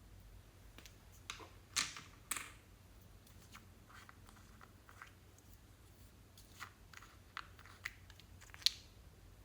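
Slime being worked by hand, giving scattered small crackles and pops. The loudest come about two seconds in, just after, and near the end.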